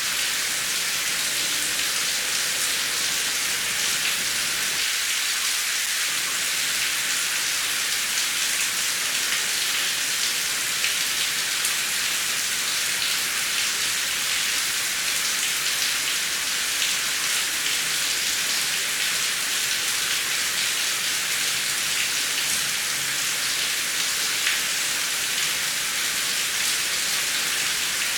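Heavy rain falling steadily, a dense even hiss with countless fine drop ticks and no thunder.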